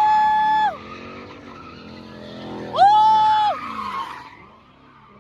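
Car tyres squealing as a car is spun or drifted, two loud squeals of about a second each, one at the start and one about three seconds in, each sliding up in pitch, holding, then dropping away. Engine noise runs underneath.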